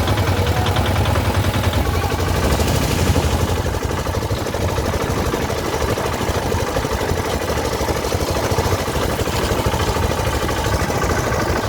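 A vehicle engine running steadily with a low rumble, heard close up.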